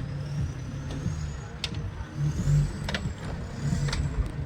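Off-road 4x4 engine running under load on the course, its revs surging unevenly and loudest about halfway through, with several sharp clicks and knocks.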